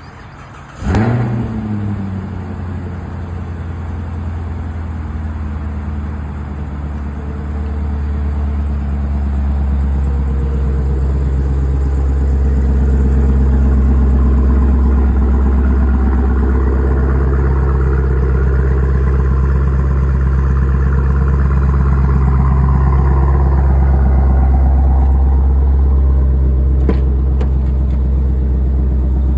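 Chevrolet Camaro ZL1's supercharged 6.2-litre V8 starting up, a short rev about a second in that falls away, then idling steadily with a deep rumble.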